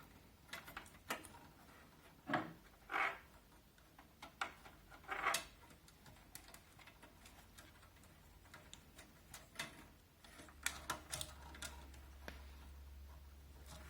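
Irregular small clicks, taps and a few short scrapes of hands working on the plastic and sheet-metal parts and fan cables of a Zalman Z11 Neo computer case, as fans are fitted and their wiring routed.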